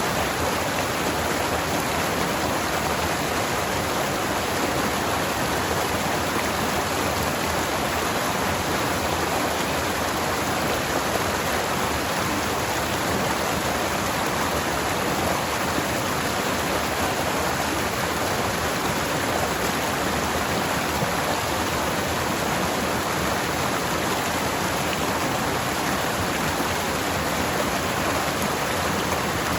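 Forest stream flowing steadily over rocks: an even rush of water.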